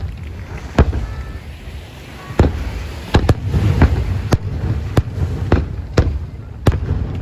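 Aerial fireworks shells bursting in a pyrotechnic display: about nine sharp bangs at irregular intervals, with a low rumble and echo between them.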